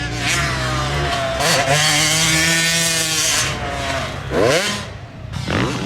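Dirt bike engine running under throttle, its pitch rising and falling as the rider rides through the gears, with two quick sharp revs near the end.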